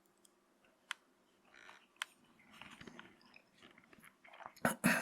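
Coarse cornmeal scraped and rubbed on a bamboo cutting board: soft gritty scratching with a couple of sharp clicks, and a louder scratchy swipe near the end.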